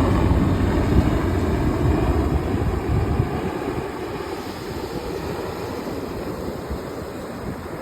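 Helicopter passing and moving away: a heavy low rumble that dies down after about three seconds, leaving a fainter steady rushing noise.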